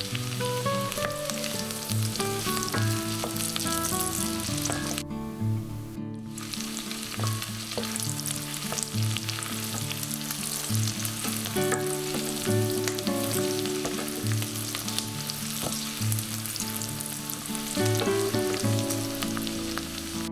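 Onion, garlic and red chili frying in butter and oil in a stainless steel pot, a steady sizzle full of small crackles, stirred now and then with a wooden spoon. The sizzle cuts out for about a second around five seconds in.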